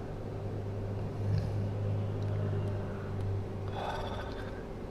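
A steady low mechanical hum with a constant tone above it, swelling slightly about a second in.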